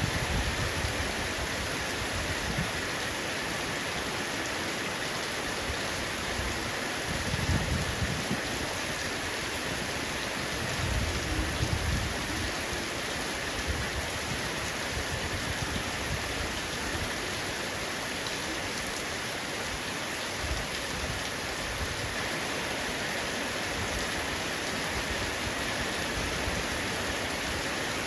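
Heavy rain falling steadily on a roof: an even hiss of drops, with two brief low rumbles partway through.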